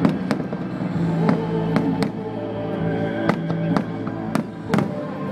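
Fireworks going off in a string of sharp bangs, about eight in five seconds at uneven gaps, over music.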